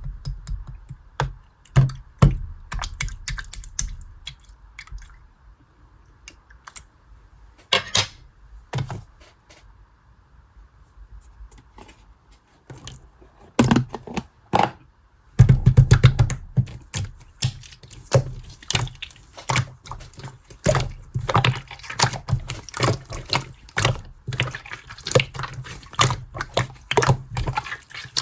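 Clear slime being handled, making short wet clicks and air-bubble pops. They come scattered at first, then in a dense, continuous run from about halfway through.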